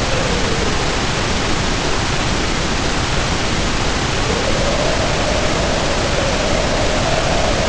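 Storm ambience: heavy rain with howling wind. The steady rain noise holds throughout, while a whistling wind howl dips and fades in the first second, then rises back about four seconds in and holds to the end.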